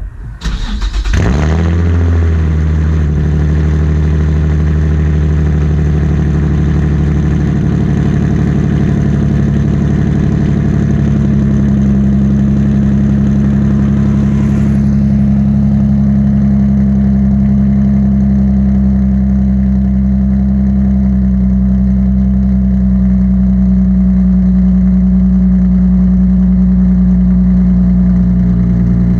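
Car engine starting about a second in with a brief flare, then idling steadily, loud through a Tomei catback exhaust.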